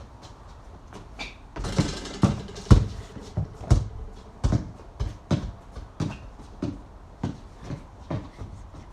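A basketball bouncing repeatedly on a hard surface, a sharp impact about every half second and fading slowly, after a short noisy clatter near the start.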